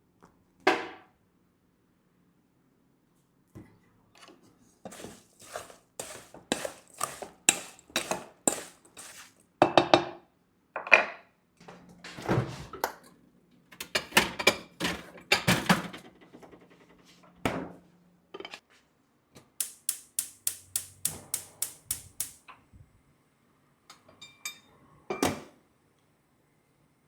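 Kitchen utensils and dishes knocking and clinking during food preparation: separate knocks, a regular run of about two a second, a denser clatter in the middle, and a quick run of light taps, about four a second, past the middle.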